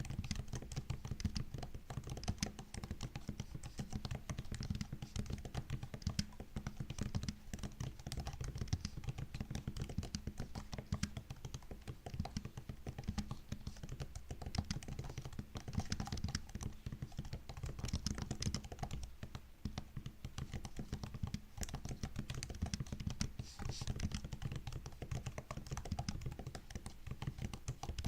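Continuous typing on a MacBook's laptop keyboard: a steady stream of soft, rapid key clicks and taps.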